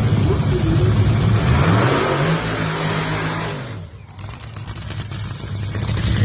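Top fuel dragster's supercharged, nitromethane-burning Hemi V8 running very loud and revving, its pitch rising about two seconds in and holding. The sound drops away sharply a little past the middle, then builds back up to full loudness.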